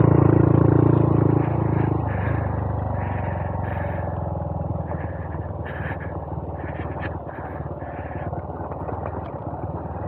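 Honda Monkey 125's single-cylinder four-stroke engine running under throttle on a dirt trail, easing off about a second and a half in and carrying on at lower revs.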